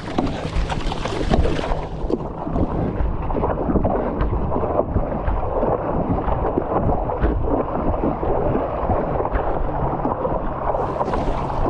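Stand-up paddleboard being paddled hard in choppy water: water rushing and splashing around the board and paddle, with wind buffeting the microphone.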